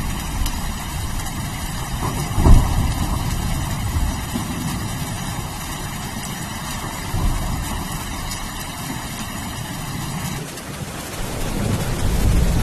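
Rain with rolling thunder: a continuous low rumble under the hiss of rain, a sharp thunderclap about two and a half seconds in, and another rumble building near the end.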